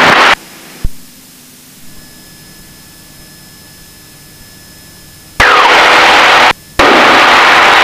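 Cessna 172 engine and cabin noise at climb power just after takeoff, heard through the headset intercom as a loud steady rush. It cuts off abruptly about a third of a second in as the intercom closes, leaving only faint steady tones and a single click. The rush cuts back in about five and a half seconds in and drops out again briefly near seven seconds.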